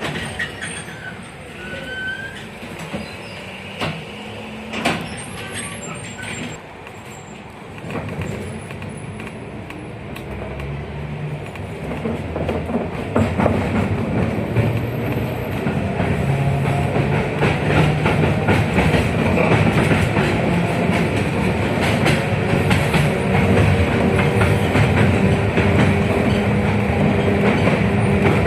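A 71-619KT tram car's running noise, heard aboard: scattered knocks and clicks and a brief squeal at first. From about twelve seconds in, the tram gains speed, and its traction-equipment hum and the rumble of wheels on rails grow steadily louder.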